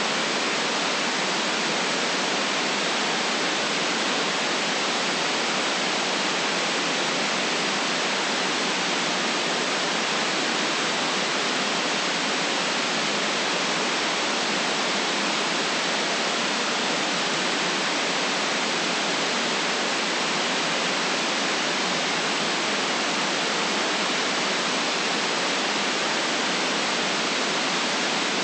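Steady, unchanging white-noise hiss with no deep rumble in it.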